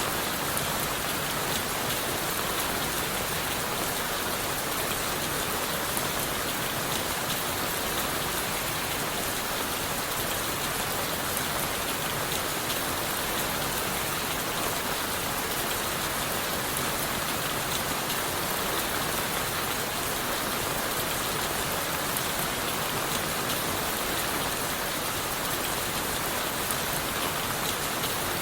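Steady rain falling on forest leaves and a wooden shelter, an even hiss of many close drops with no change in strength.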